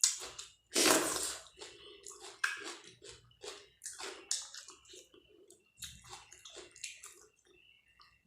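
Close-up wet chewing and mouth sounds from eating rice with dal and curry: irregular short smacks and squelches, with one louder, longer wet sound about a second in.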